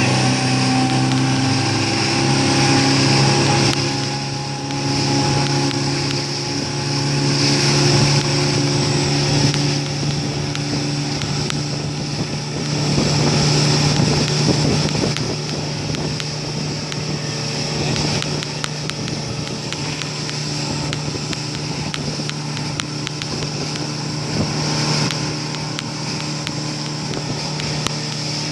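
Motorboat engine running steadily under way, over a steady hiss of water and wind.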